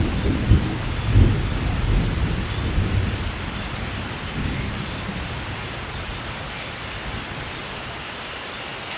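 Steady rainfall with a roll of thunder that rumbles through the first few seconds and dies away about halfway through, leaving the even hiss of the rain.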